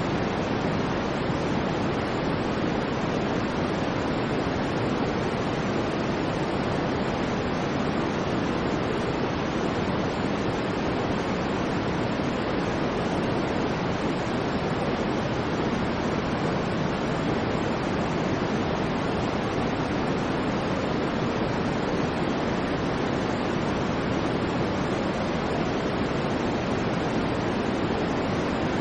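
Steady, unchanging white noise used as a sleep sound: an even hiss with no rhythm or events, fuller in the low and middle range than in the highs.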